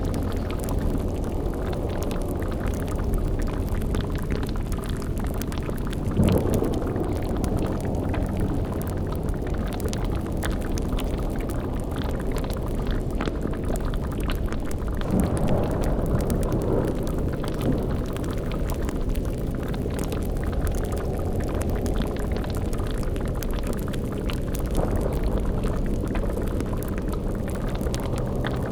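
Layered dark ambience: a steady low rumble under bubbling and crackling, like a cauldron boiling over a fire. It swells louder briefly three times.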